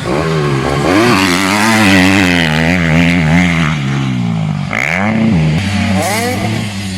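Motocross dirt bike engines running hard, the pitch rising and falling as the throttle opens and closes, with a sharp drop and fast climb about five seconds in.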